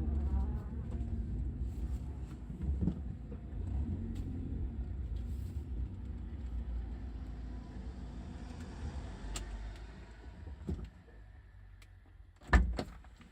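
Low road and engine rumble inside a 2012 Chevy Spark's cabin, with a few light knocks that the owner traced to the rear seat folding lever knocking over uneven road. About ten seconds in the rumble drops away, and a single sharp thump sounds near the end.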